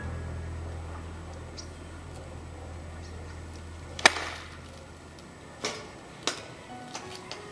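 Golf club striking a ball off a practice mat about four seconds in: one sharp crack, the loudest sound, followed by two fainter clicks.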